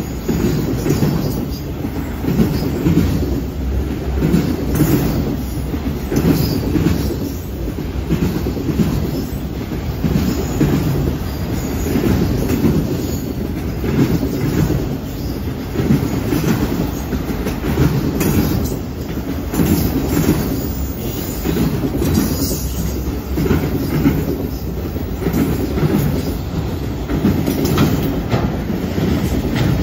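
Freight train of enclosed autorack cars rolling steadily past at close range. Its steel wheels clack over the rail joints in a regular rhythm, over a continuous low rumble.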